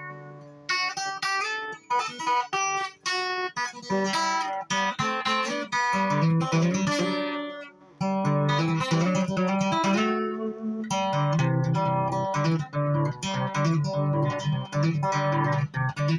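Instrumental music on a plucked string instrument, a dense run of quick single notes with a brief pause about eight seconds in.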